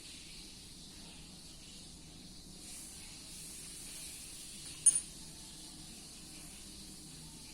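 CNC machine running with a steady high hiss over a low hum. One short, sharp click comes about five seconds in.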